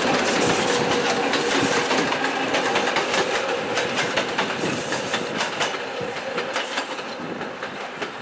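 Passenger train hauled by a ČKD T669 diesel-electric locomotive passing and moving away. The carriage wheels clack over the rail joints amid a steady rolling rumble, growing fainter as the train recedes.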